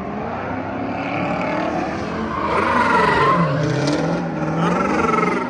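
A car engine revving hard and rising and falling in pitch, with tire squeal from a slide; loudest about halfway through.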